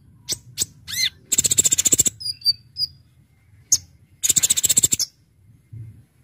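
Kolibri ninja sunbird singing. Sharp, high single chirps are broken by two fast rattling trills about a second long, one near the start and one about four seconds in.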